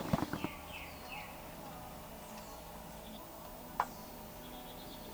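A dog crunching dry kibble: a quick cluster of crunches at the start. A few short descending bird chirps follow, and there is a single sharp click later on.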